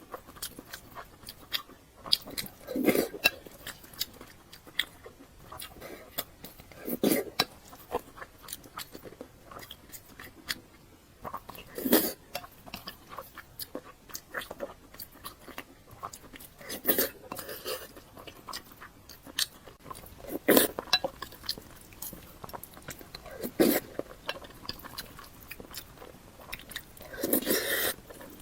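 Close-miked eating: steady chewing with crisp, crunchy bites and wet mouth clicks, and a louder mouth sound about every four to five seconds.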